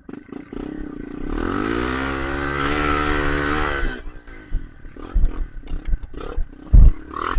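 Dirt bike engine revved hard, its pitch climbing and holding for about two seconds before dropping off, then a run of knocks and heavy thumps.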